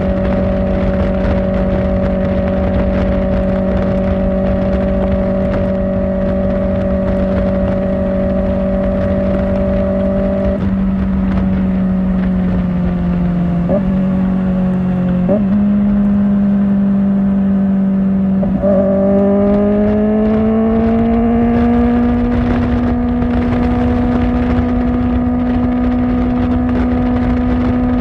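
Kawasaki Ninja ZX-4R's 399 cc inline-four with an Akrapovic exhaust, running at steady cruising revs. About ten seconds in the note sags and breaks briefly a few times, then climbs and settles on a higher steady note for the rest of the ride.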